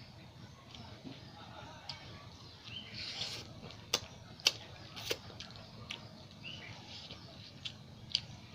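Close-miked mouth sounds of someone eating chicken curry with paratha: wet chewing with sharp lip smacks and clicks, a run of them in the middle and another near the end.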